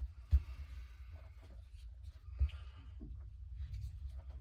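Two light knocks about two seconds apart, over a low steady rumble and faint scraping.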